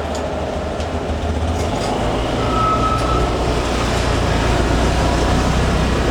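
Ro-ro ferry's engines running: a loud, steady low rumble that grows slightly louder, with a brief high tone about two and a half seconds in.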